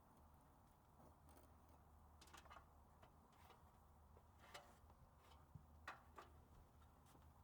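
Putty knife scraping paint off shed siding, heard faintly: a handful of short, scattered scrapes and clicks over a low steady hum.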